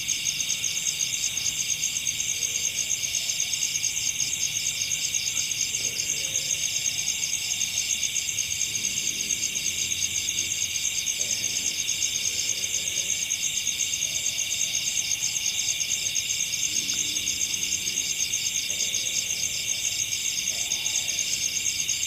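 Night chorus of crickets and other insects: a dense, steady, fast-pulsing high trill that runs without a break.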